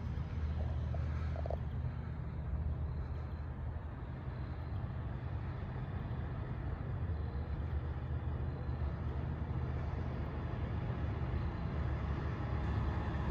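A motor vehicle engine running steadily: a low, even rumble, with no siren or horn sounding.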